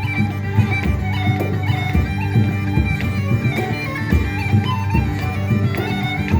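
Bagpipe music: a melody played over steady drones.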